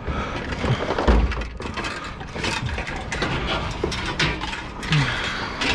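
Clattering, rattling knocks of scrap metal and junk being handled and unloaded, with a heavy low thump about a second in.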